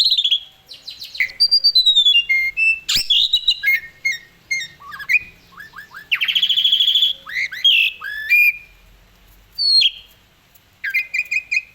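Asian pied starling (Jalak Suren) singing a long, varied song of whistles, rapid trills and harsh sliding notes, with a brief pause about nine seconds in.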